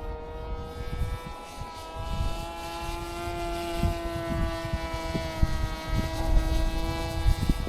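The electric motor and propeller of a foam RC plane (Flite Test Space Fighter) whining overhead, the pitch drifting slowly as it flies around. Wind gusts buffet the microphone in low, uneven rumbles.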